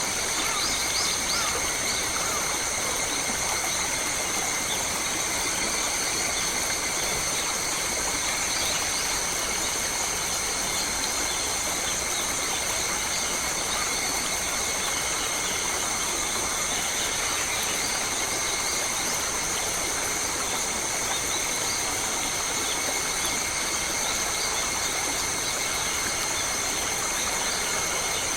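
Forest ambience: a steady, unbroken high-pitched drone with a few short bird chirps, the clearest about a second in.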